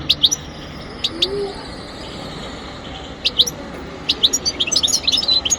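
European goldfinch calling: a few sharp, short high notes in pairs, then from about four seconds in a quick twittering run of notes.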